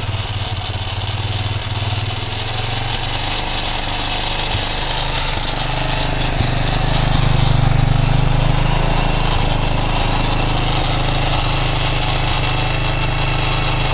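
Freshly rebuilt 230cc single-cylinder motorcycle engine in a Honda CTX200 frame idling steadily, swelling slightly for a few seconds in the middle. It carries a light rattle from the top end, which the owner takes for tappet noise.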